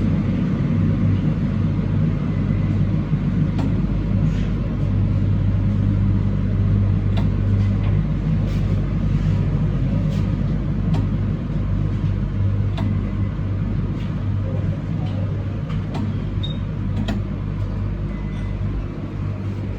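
Train running along the line, heard from inside at the front: a steady low hum and rumble with faint scattered clicks.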